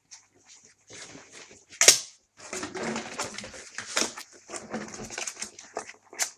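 Young puppies eating meat: an irregular run of wet chewing, smacking and small clicks, with one sharp, louder click about two seconds in.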